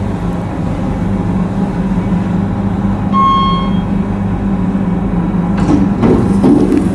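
KONE MiniSpace traction elevator: a steady low machine hum, a single electronic arrival chime about three seconds in, then the sliding doors starting to open near the end.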